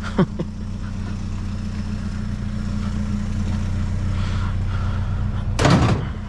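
Truck engine running steadily with an even low hum, with a short louder noise near the end.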